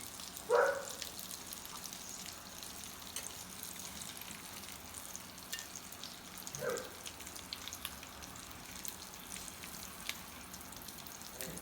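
Food frying in a pan: a steady sizzle with fine crackling. Two short, higher-pitched sounds stand out, one about half a second in (the loudest) and one near seven seconds in.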